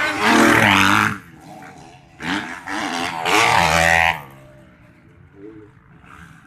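Motocross dirt bike engines revving hard, rising and falling in pitch, in two loud passes: one in the first second and a longer one from about two to four seconds in.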